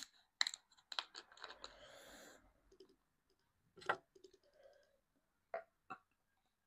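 Close-miked eating sounds of Korean black bean noodles: scattered sharp, wet clicks and a short slurping noise about a second and a half in.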